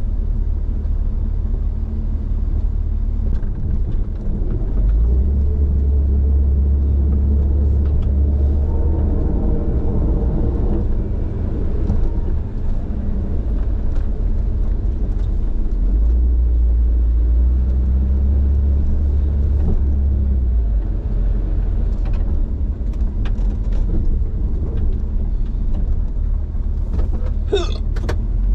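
A plow vehicle's engine and drivetrain rumble steadily, growing heavier twice for several seconds at a time. A short high squeak bends in pitch near the end.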